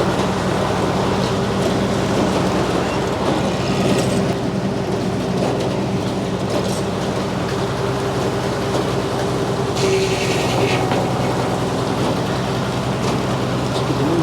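Frick sawmill running steadily, its 48-inch circular blade sawing a poplar log. Two short bursts of brighter hiss come about four and ten seconds in.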